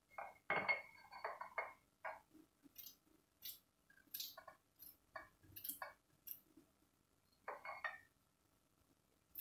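Knife chopping garlic cloves on a cutting board: faint, irregular taps and clicks, with a couple of brief scraping sounds about half a second in and near the end.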